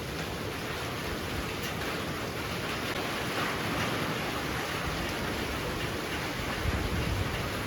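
Heavy rain pouring steadily, swelling a little in the middle, with a brief low rumble near the end.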